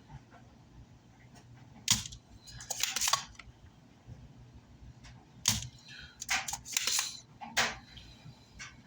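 Spring-loaded desoldering pump (solder sucker) being cocked and fired while clearing solder from circuit-board holes: three sharp snaps, each with shorter scratchy clicks around it.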